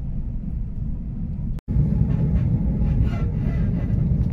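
Inside a passenger train running at about 175 km/h: a steady low rumble of the wheels on the rails. About one and a half seconds in, the sound cuts out for a moment and comes back louder.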